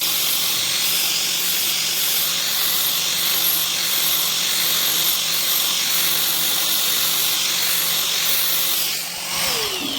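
Air compressor running with a strong steady hiss and a faint pulse about twice a second; near the end its motor tone falls as it winds down.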